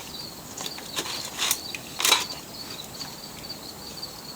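A few light clicks and creaks from a lawn mower engine's carburetor linkage being worked by hand, over a steady high cricket trill.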